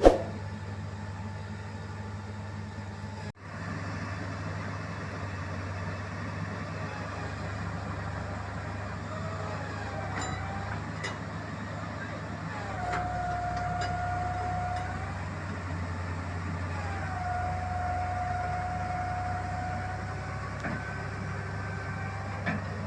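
Rice combine harvester's diesel engine running steadily, with a whine that rises in, holds and falls away twice in the second half.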